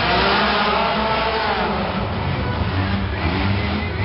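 Mini-monster truck engines revving, their pitch rising and falling in swells over a constant noisy rumble.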